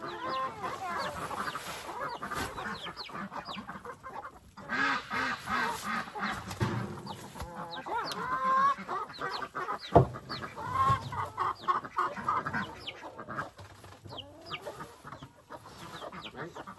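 A flock of chickens clucking and calling. There is one sharp knock about ten seconds in.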